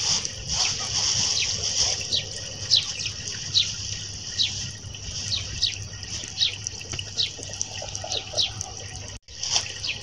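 Birds calling in short, falling chirps about once a second over a steady high hiss and a low rumble. The sound drops out for a moment near the end.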